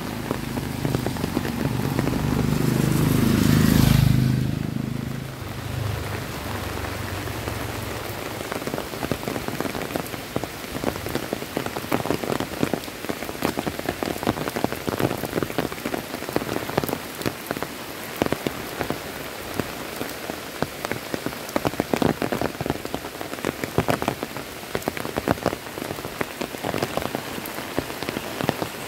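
Heavy rain falling steadily on a paved road and foliage, with sharp drop splats throughout. A motorbike passes close by, its engine and wet-tyre hiss building to a peak about four seconds in and then fading quickly.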